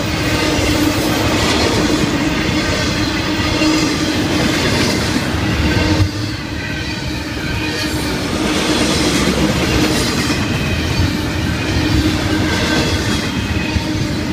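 Florida East Coast Railway double-stack container cars rolling past at close range: a steady rumble and clatter of steel wheels on the rails, with a steady tone running underneath.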